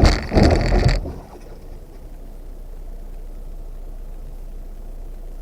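A loud, harsh crunch and scrape of about a second as the off-road vehicle hits a trail obstacle, then its engine idling with a low, steady rumble.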